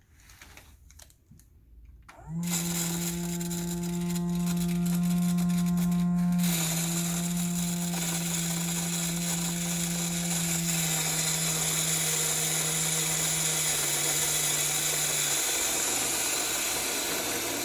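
Small battery-powered blower motor in a toy chimney switching on about two seconds in and running steadily with a whirring hum and a high airy hiss as it blows fake snow; its pitch drops slightly a few times.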